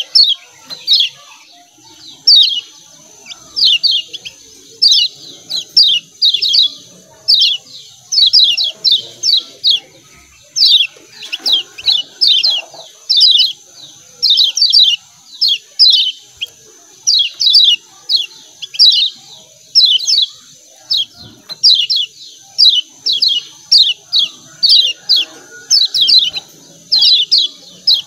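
Kecial kuning (Lombok yellow white-eye) giving rapid 'ciak ciak' calls: short, high, downward-slurred chips in quick runs of two to five, repeating steadily, over a faint steady high hiss.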